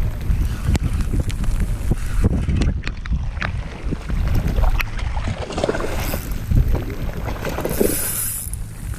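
Wind buffeting a chest-mounted GoPro's microphone as a steady low rumble, with scattered short knocks and splashes of water.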